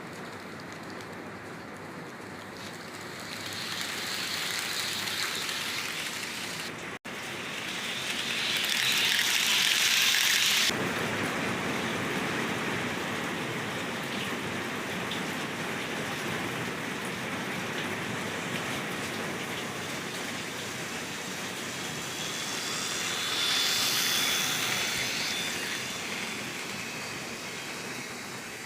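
Model trains running on a model railway layout: a steady rushing of wheels and motors that grows louder as a train passes close, with a brief break about seven seconds in, a sudden drop near eleven seconds and another swell near the end with a faint high whine.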